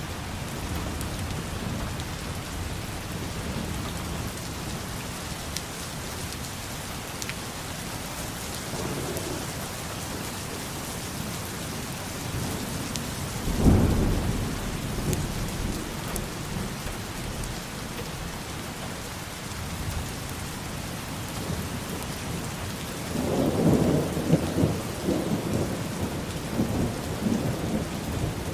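Steady rainfall with thunder: a sudden loud clap about halfway through, and a longer rolling rumble that swells and pulses near the end.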